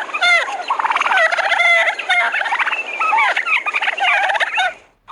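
Turkey gobbling: a continuous run of rapid, warbling gobbles that stops just before the end.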